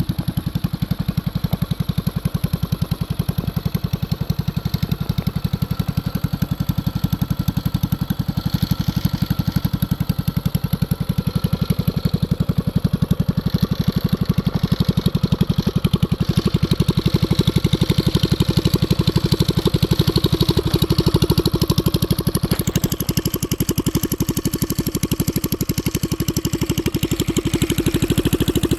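Small single-cylinder 196cc minibike engine with a stage 1 kit and open header, running at a steady idle with evenly spaced firing pulses.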